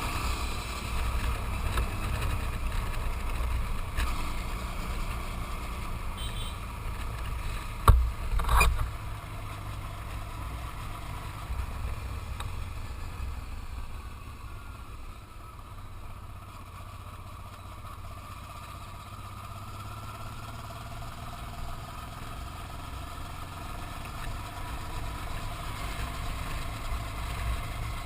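Motorcycle engine running and road noise from the moving bike, a steady low rumble that eases off after about thirteen seconds. Two sharp knocks in quick succession about eight seconds in are the loudest sounds.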